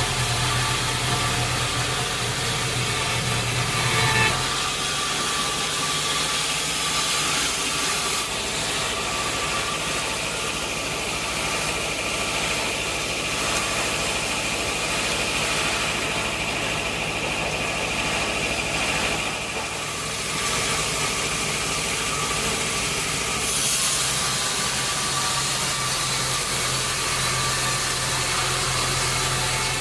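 Sawmill machinery running with a steady mechanical drone and hiss. Its low hum drops away about four seconds in and returns near the end.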